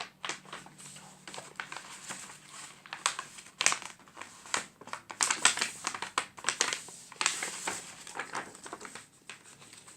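Sheet of paper being folded and creased by hand: irregular crinkling and rustling, with a few louder crackles.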